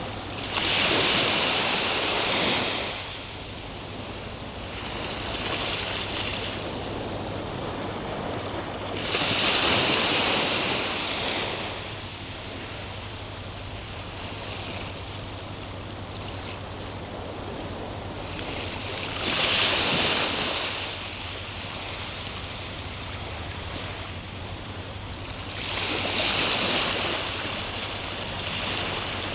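Ocean waves breaking and washing up the shore: four loud hissing surges several seconds apart and one weaker one, over a steady background rush of surf.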